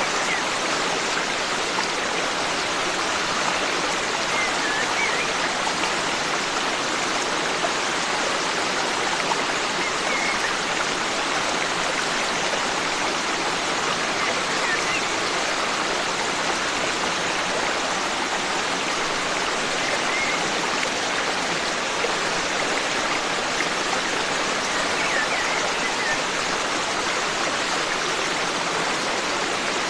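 Forest stream running steadily, with faint short bird chirps every few seconds.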